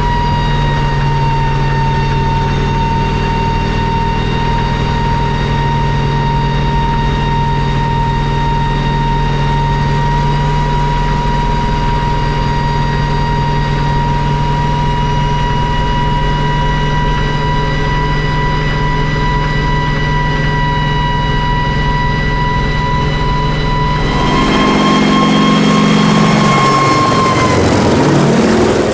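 Kamov Ka-26 helicopter's twin radial piston engines and coaxial rotors running steadily with a high whine. About 24 s in it comes close and passes by, louder, with a sweeping rush and the pitch dropping as it goes past.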